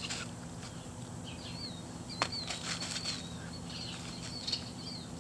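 Small birds chirping in short, repeated notes, with a few soft rustles and one sharp click about two seconds in.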